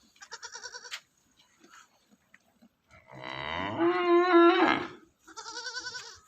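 Goats bleating: a short, quavering, high bleat near the start and another near the end, with a longer, lower and louder bleat in the middle.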